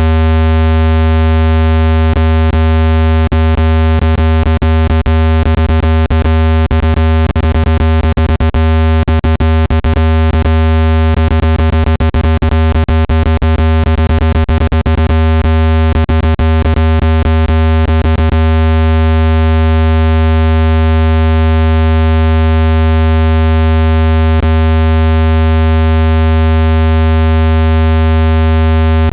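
Loud, steady low-pitched electronic tone with a stack of overtones: a water-ejection tone played to vibrate water droplets out of a phone speaker. Many sharp clicks come through it from about two seconds in until about eighteen seconds in.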